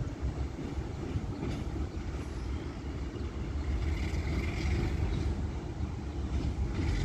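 A train's steady low rumble as it runs at the station.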